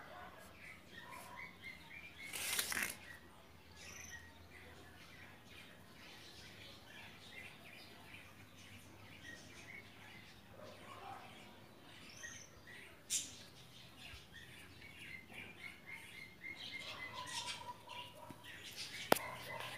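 Small birds chirping and calling throughout in quick repeated chirps, with a few higher rising calls. A brief rustling noise about two and a half seconds in, and two sharp clicks, one near the middle and one near the end.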